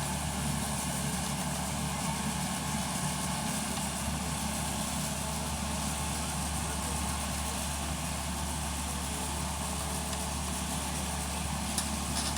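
Tata Hitachi hydraulic excavator's diesel engine running steadily, with a couple of sharp clicks near the end.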